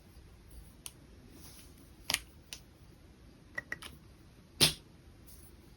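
A few scattered light clicks and taps from handling a pen and paper at a drawing desk. There is a sharp double click about two seconds in, a few small ticks later, and a louder knock about two-thirds of the way through.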